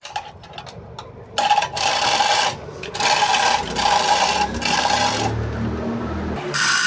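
A power tool, such as an air impact wrench, running in repeated bursts of one to two seconds, each with a steady whine, with a low rumble underneath through the middle.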